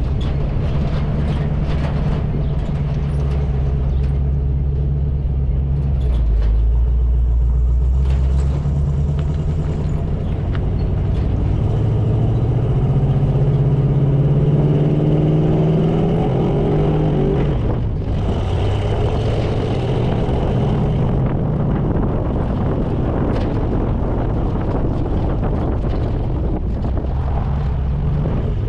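1980 Chevy K20's 350 small-block V8 with glasspack exhaust, pulling a trailer on the road. The engine runs steadily, climbs in pitch as it accelerates for several seconds past the middle, then falls away suddenly and settles back to a steady note.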